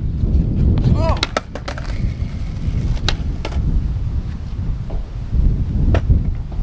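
Skateboard clacks and a short squealing scrape about a second in, then more sharp clacks around three seconds and again near six seconds, over heavy wind rumbling on the camera microphone.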